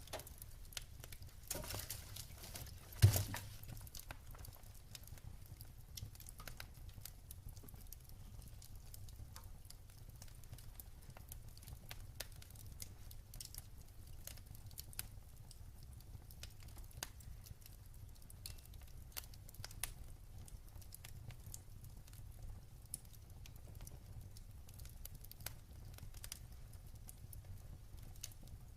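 Wood fire crackling in a fireplace: scattered small pops and snaps over a low steady rumble, with one loud pop about three seconds in.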